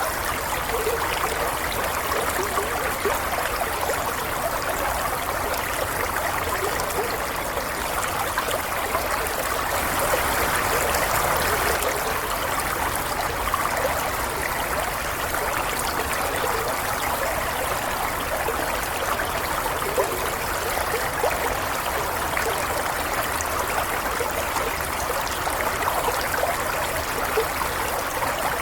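Stream water flowing and trickling steadily over rocks, with small gurgles.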